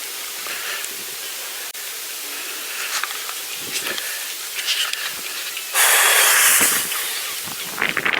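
Steady hiss of wind and tyre noise while riding a bicycle, with scattered light ticks and rattles. Near the end a louder rush of hiss lasts about a second.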